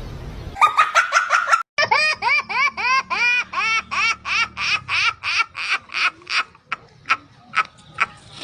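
A baby laughing: a long string of high-pitched giggles about four a second, thinning out into fainter, sparser ones near the end.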